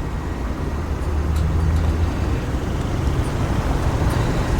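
Steady low rumble of road traffic, with a faint engine-like hum that grows slightly after about a second.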